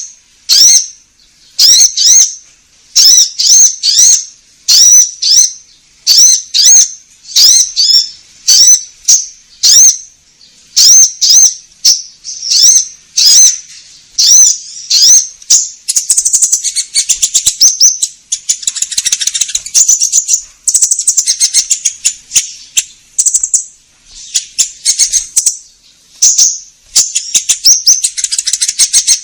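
Olive-backed sunbird in full, vigorous song. For the first half it gives sharp, high sweeping chirps in quick groups about once a second, and from about halfway on it breaks into a fast, nearly continuous twittering trill.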